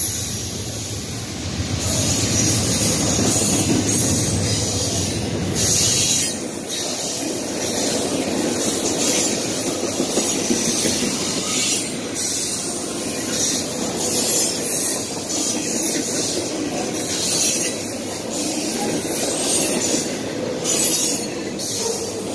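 Norfolk Southern double-stack intermodal train's container well cars rolling past close by: a steady rumble of steel wheels on rail, with high-pitched wheel squeal coming and going.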